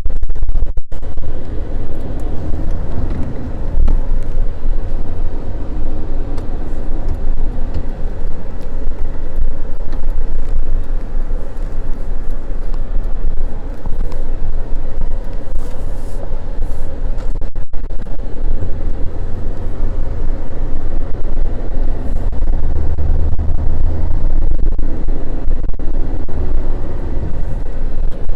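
Motor vehicle driving on snowy roads: a steady low rumble of engine and road noise. The rumble cuts out very briefly twice.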